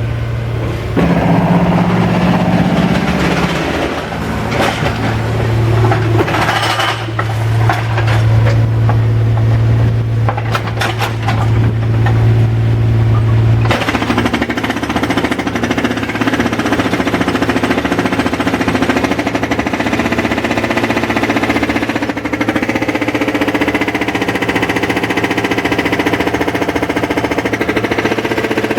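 Construction machinery at a worksite: rapid, continuous hammering like a jackhammer over a steady engine drone, with a few sharper knocks. About 14 seconds in, the drone suddenly changes to a higher pitch and keeps going.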